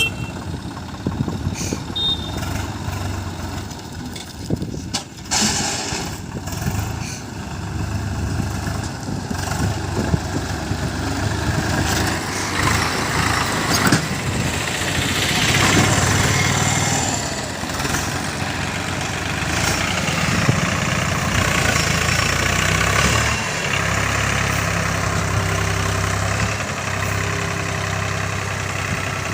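Diesel engine of heavy earthmoving machinery running. It gets louder and busier partway through, as under working load.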